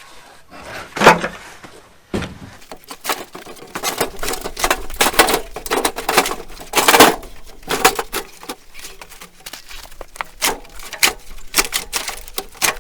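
Irregular knocks, bangs and scraping of a heavy generator being manhandled and shoved off a wooden pallet. The loudest hits come about a second in and again about seven seconds in.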